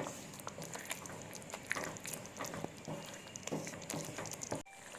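Thick tomato sauce cooking in a pan, with soft irregular pops and clicks as it thickens; the sound cuts off abruptly near the end.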